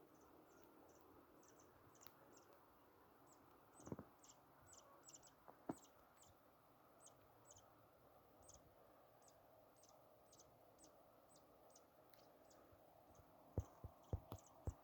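Faint, short high-pitched chirps repeating about two or three times a second, like an insect or small bird calling. There is a soft thump about four seconds in, and a quick run of sharp knocks near the end.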